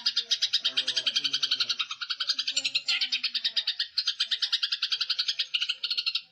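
Songbird calling in a fast, unbroken string of sharp chirps, about eight to ten a second, as used for song-tutoring recordings.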